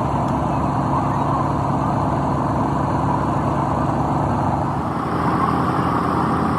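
Excavator's diesel engine running steadily, its note shifting about five seconds in.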